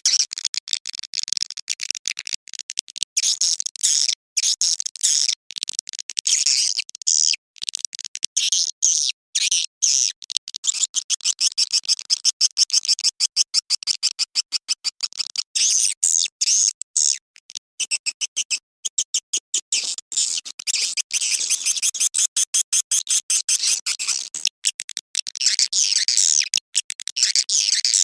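Swiftlet lure call: a recording of swiftlets giving rapid, high-pitched twittering chatter, dense and continuous but broken by many short gaps. It is the kind of call played at swiftlet houses to draw birds in for nesting.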